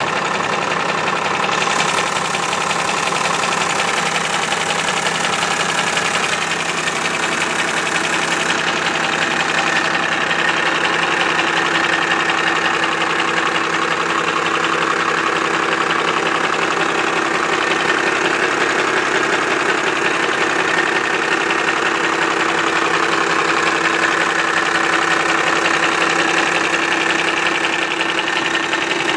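Cummins 12-valve inline-six diesel running steadily with a knock, which the owner suspects is coming from the injection pump.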